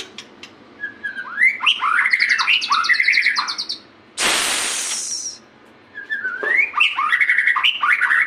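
White-rumped shama singing in two bursts of varied phrases: rising whistles, rapid trilled notes and high buzzy runs. About 4 s in, a loud burst of noise lasting about a second breaks in between the phrases.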